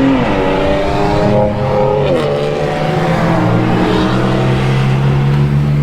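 Cars accelerating hard in a street race, engine pitch climbing and then dropping sharply about two seconds in at a gear shift, then settling into a steady engine drone.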